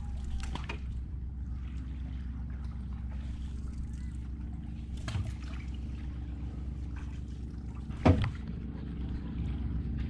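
A small boat's motor running steadily, a low even hum with faint splashing and knocks. A brief louder sound comes about eight seconds in.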